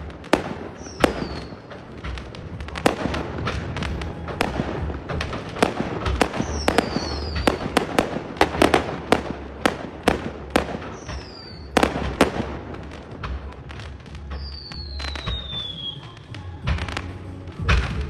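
Fireworks going off in rapid, irregular bangs and crackles, with a few falling whistles, the longest near the end.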